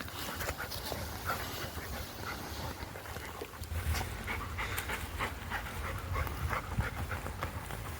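A Labrador panting, with scattered short crackles and rustles over a low rumble.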